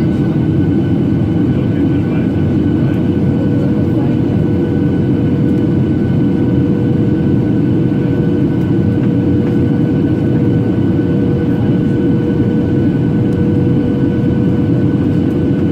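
Steady cabin roar of a Boeing 737-800 airliner in flight, heard from a passenger seat: engine and airflow noise with a faint steady tone.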